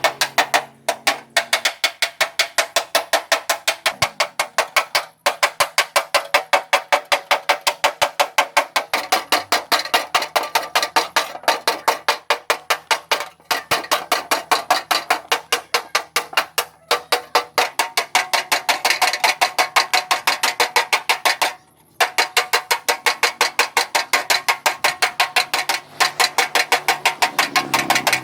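Hammer beating sheet-metal car body panels, rapid even blows at about four a second, with a few brief pauses.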